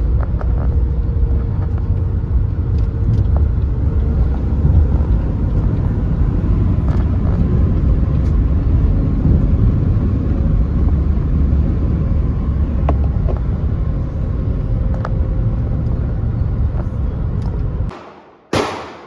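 Car driving, a steady loud low rumble of road and engine noise that cuts off suddenly near the end, followed by one short, loud crack.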